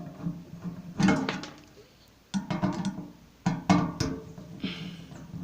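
Guitar strumming: a handful of separate chords struck and left to ring, over a steady low hum.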